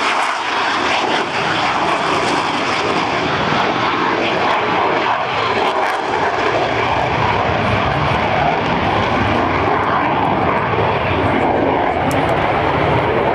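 Jet fighter making a slow display pass with its wheels down, tail hook lowered and refuelling probe out; steady jet engine noise that grows heavier and lower from about halfway through.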